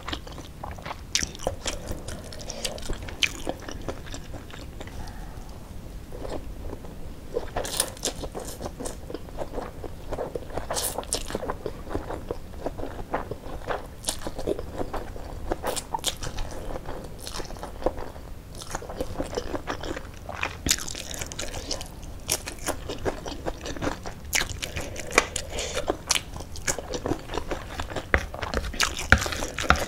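Close-miked eating of Mie Gacoan noodles: wet chewing and mouth sounds with many irregular short crunchy clicks.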